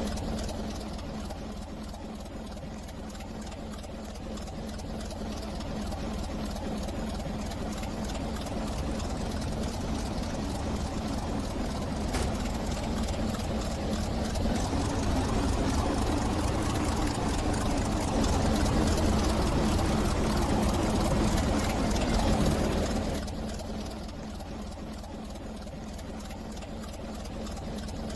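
Train running, heard from inside the carriage: a steady rumble with a constant low hum, growing louder through the middle and dropping off sharply about five seconds before the end.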